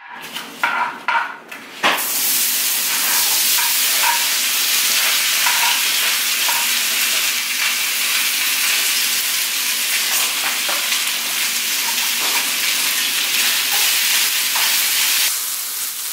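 Diced potato, tomato and chile frying in hot oil in a skillet: a few light knocks at first, then sizzling starts suddenly about two seconds in as the food goes into the pan and carries on steadily, with scattered light taps of stirring, easing a little near the end.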